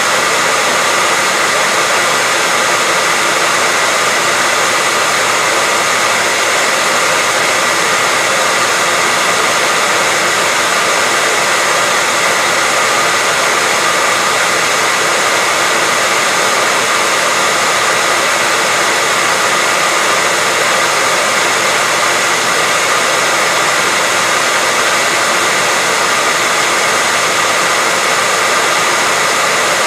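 Hair dryer blowing steadily at one speed, a constant rushing hiss with a faint high whine from its fan motor.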